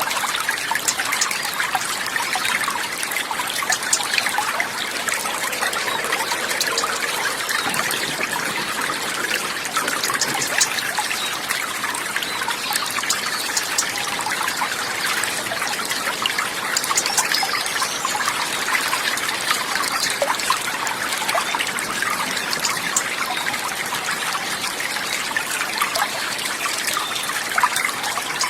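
Running water trickling steadily, a continuous stream of small splashes.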